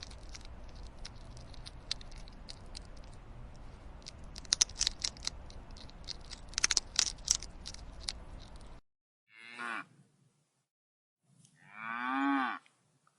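Cow mooing twice near the end, a short low moo then a longer, louder one that rises and falls in pitch. Before the moos there is a steady hiss of outdoor noise with scattered clicks and crackles.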